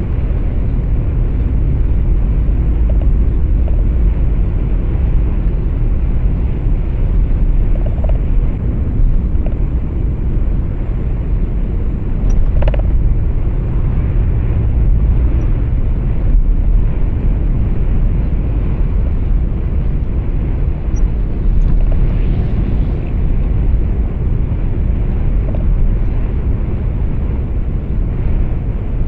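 Steady low rumble of a truck's engine and tyre road noise, heard inside the truck cab, with a short faint blip about twelve seconds in.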